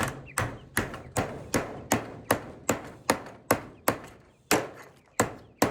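Steady hammer blows, about two and a half a second, beating a bent hinge back straight.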